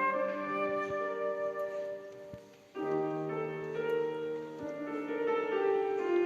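Flute and piano playing classical music. About two seconds in the sound dies away to a short pause, then the piano comes back in with held chords.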